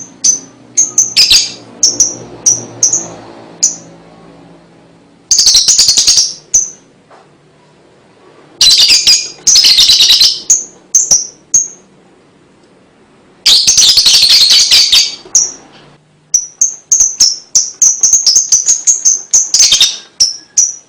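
Lovebird chattering (ngekek): loud, very fast high-pitched chatters about a second or two long, broken by runs of short repeated chirps and brief quiet gaps.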